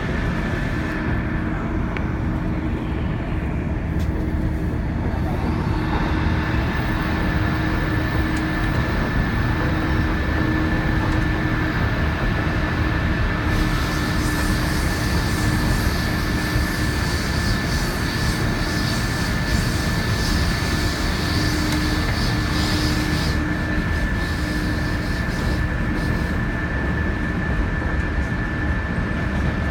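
Odoriko limited express train running between stations: a steady rumble of wheels on rail with a constant thin whine over it. A hissing rush joins in about halfway through and fades again a few seconds before the end.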